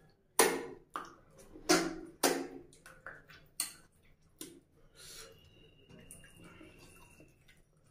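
Close-miked wet chewing and lip-smacking of a man eating curry and rice by hand, with about five loud sharp smacks in the first four and a half seconds, then softer chewing clicks.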